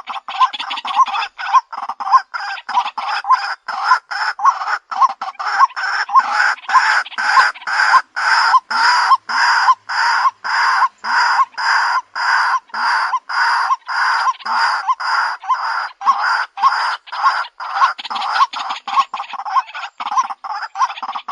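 White-breasted waterhen giving its repeated harsh call, about two to three notes a second without a break. This is the bird's lure call, as used in bird-catching recordings.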